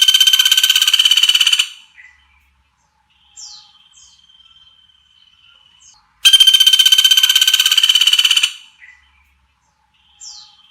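Recorded songbird call used as masteran tutoring song: a loud, very fast buzzing trill lasting about two seconds, repeated once about six seconds later. Between the trills come a faint thin steady whistle and a few short falling high chirps.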